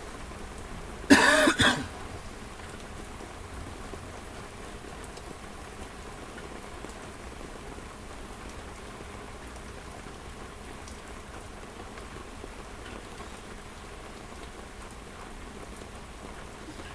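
Steady rain falling. About a second in, a person coughs once, loudly and close to the microphone.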